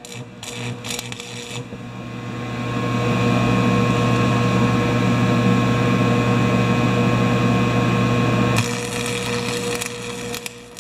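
Stick welder: a few scratchy clicks as the rod is struck, then the arc crackles with a steady low buzz for about six seconds, welding a broken steel grass-bag frame, and cuts off suddenly near the end.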